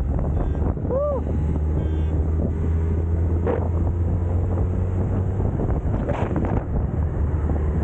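Wind buffeting the microphone while riding a Suzuki Hayabusa, over the steady low drone of its inline-four engine.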